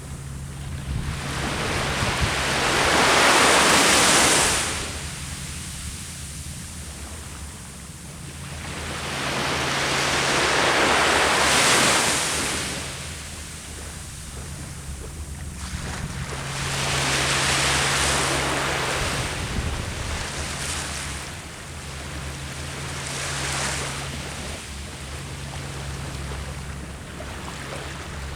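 Ocean waves breaking on the shore, four surges that swell and wash back about every six seconds, over a low steady rumble.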